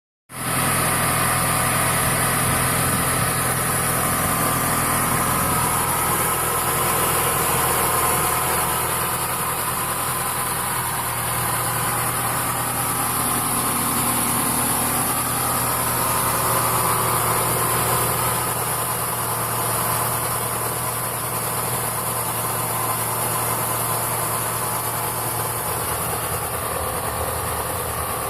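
Car petrol engine with about 70,000 km on it idling steadily, a low, even hum, which the owner presents as in like-new condition.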